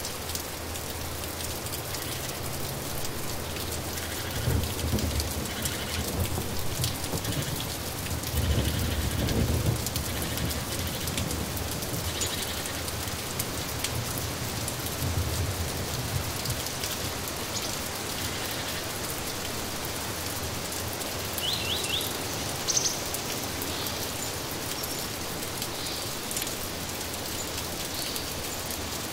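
Steady rain falling, with low rumbles of thunder rolling in twice in the first ten seconds and again briefly around the middle. A few short, high bird chirps come through the rain, the clearest past the middle.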